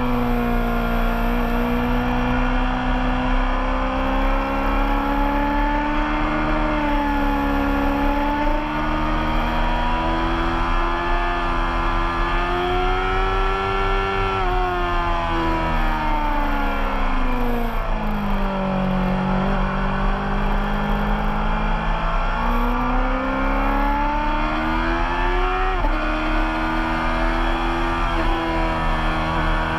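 Racing motorcycle engine at speed on track, heard from a camera on the fairing. The engine note climbs slowly for about half the time, then falls away to a low point. It climbs again and changes pitch suddenly near the end.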